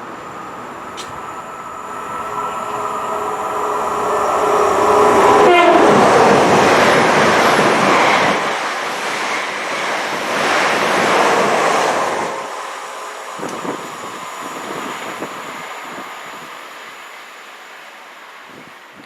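A train sounds a held horn-like tone as it approaches; the tone drops in pitch as the train passes about five and a half seconds in. The carriages rush and rumble past until about twelve seconds in, then the sound fades away.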